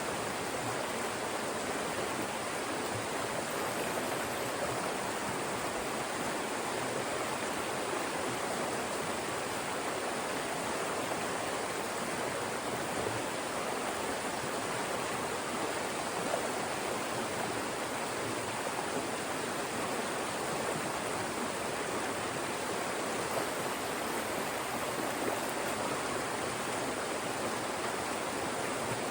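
Fast mountain stream rushing and splashing over rocks, a steady full-bodied water noise.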